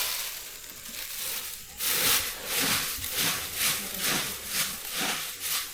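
Dry powdered coca leaves being crushed and worked together with plant ash to make mambe. The rhythmic scraping strokes start about two seconds in and come at about two a second.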